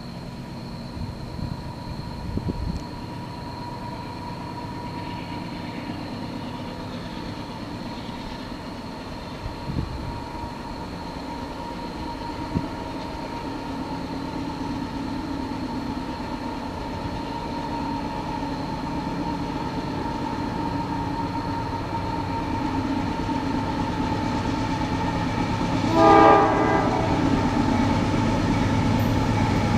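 Pair of GE AC44CW diesel locomotives approaching, their engine rumble growing steadily louder. About 26 s in comes one blast of about a second on a five-chime air horn (Nathan K5LA), with another blast starting right at the end.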